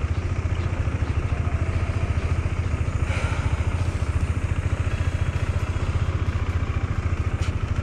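KTM 390 Adventure's single-cylinder engine running at low revs with a steady, rapid pulsing as the bike crawls along at walking pace.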